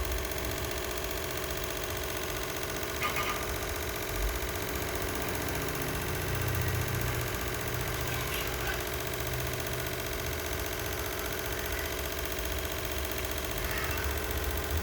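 A steady mechanical hum with a low rumble that swells a little in the middle, and a few faint short sounds over it.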